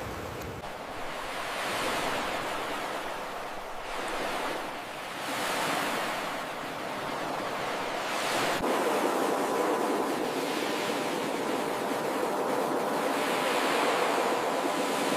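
Ocean surf washing on a shore, a steady hiss of water that swells and eases in slow surges every few seconds.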